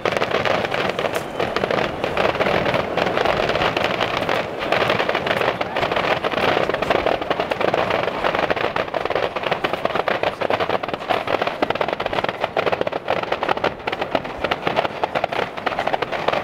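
Firecrackers crackling and popping in a dense, unbroken stream, with a crowd's noise underneath.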